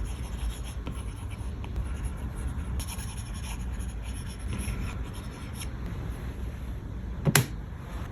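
Stylus scratching lightly on a tablet's glass screen over a steady low rumble, with one sharp tap near the end.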